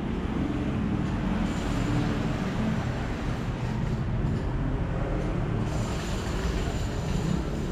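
Motor vehicle engine running steadily close by, with a wavering low hum over broad road noise.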